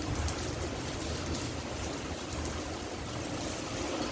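Heavy rain falling steadily: an even hiss with faint pattering ticks and a low rumble underneath.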